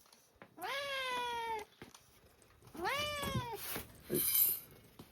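Domestic cat meowing twice: a long meow about half a second in, then a shorter one that rises and falls about three seconds in. A brief burst of noise follows near the end.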